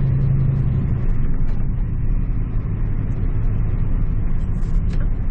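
Scania truck's engine and road noise heard inside the cab while driving, a continuous low rumble. A steady low engine note drops away about a second in, leaving the rumble of the road and cab.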